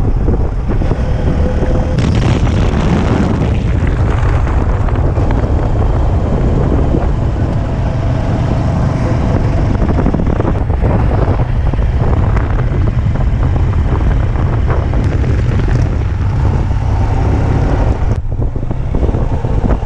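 Wind buffeting the microphone over the steady running and road noise of a moving vehicle, loud and even throughout, with a brief dip near the end.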